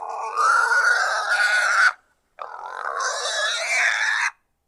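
Pig squealing in two long calls, the second starting about two and a half seconds in.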